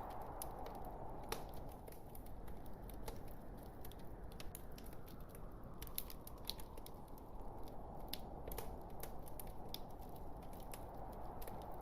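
Log fire crackling in a fireplace: irregular sharp pops and snaps over a steady soft rush of burning wood.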